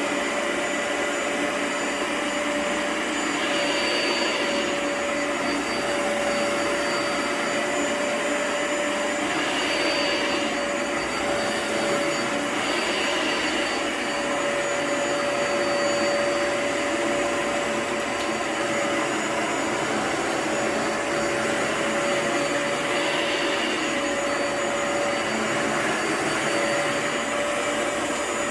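Vacuum-type suction motor running steadily on a rug, with a constant whine and a few brief swells in the hiss.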